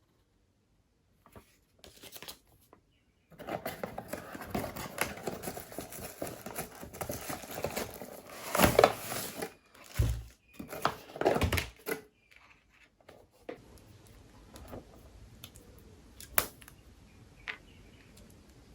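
Handling noises: rustling and crinkling, like packaging or plastic being handled, with sharp clicks and knocks. It is loudest in the middle and settles to faint noise with a few isolated clicks near the end.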